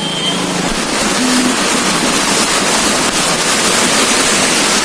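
Heavy rain pouring down in a steady, loud hiss, with wet-street traffic noise under it.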